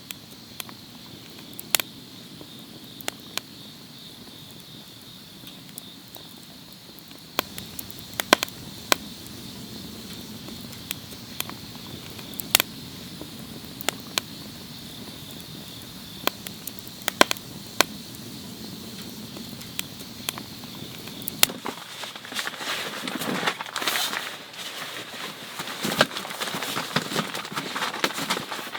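Wood fire crackling in a fire pit, with scattered sharp pops. About three quarters of the way through, the crackling grows denser and louder as the fire flares up.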